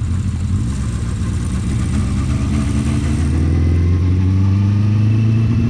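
Honda CB400/4 Super Sport's inline-four engine running on the move, its pitch rising steadily over the second half as the bike accelerates.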